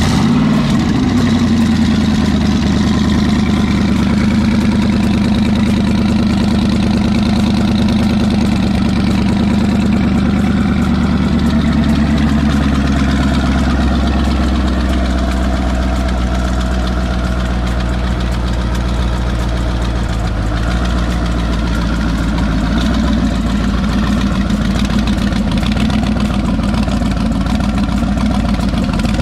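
Twin-turbocharged car engine idling loudly just after a cold start, its exhaust exiting through the hood. It picks up right at the start, then runs steadily, and the idle settles slightly lower about halfway through.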